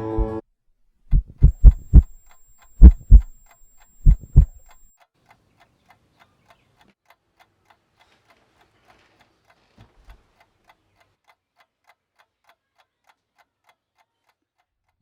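A heartbeat sound effect: four loud, low double thumps in the first few seconds, followed by a clock ticking faintly and evenly, about two ticks a second.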